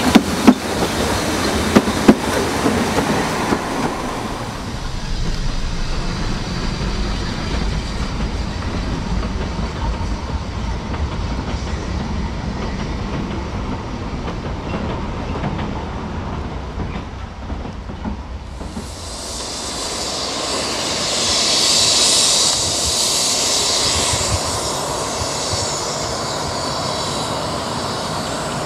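Narrow-gauge railway carriages passing close, their wheels clicking over rail joints, then a steadier low rumble as the train runs farther off. About two-thirds of the way through, a hiss rises, peaks and slowly fades.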